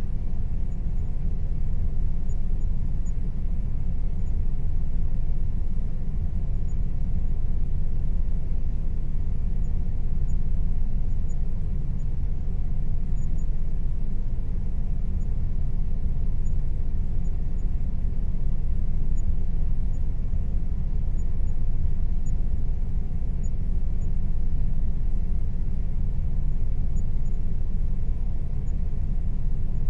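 Air conditioner running steadily: a continuous low hum with a faint steady whine above it.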